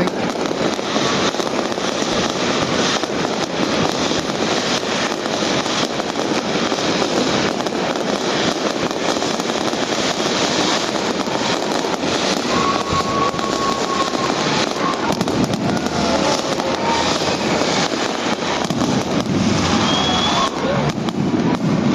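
Fireworks display: a dense, continuous barrage of crackling and popping bursts, steady in loudness throughout.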